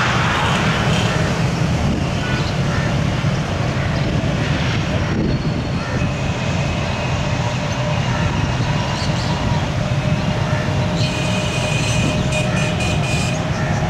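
Passenger train running through at speed, a loud, steady rumble of rolling stock on the track. A high, steady whine joins in about eleven seconds in and fades near the end.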